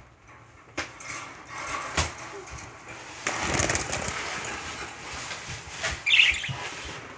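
Pet bird's wings flapping in a short flight, a rushing flutter about three seconds in, amid a few light knocks, with a brief high chirp about six seconds in.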